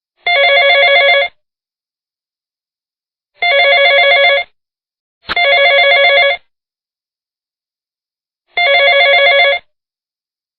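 Telephone ringing in bursts about a second long, four rings in all with silent gaps between. Each ring is a steady, slightly fluttering chord of tones.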